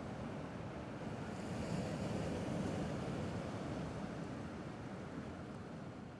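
Gentle sea waves washing on the shore, a steady wash that swells about two seconds in and then slowly fades away.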